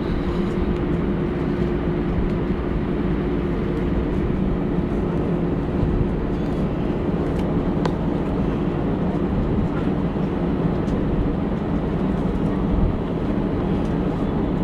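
Steady engine and airflow noise heard inside an airliner cabin after takeoff: an even low rumble with a steady hum that fades about nine seconds in.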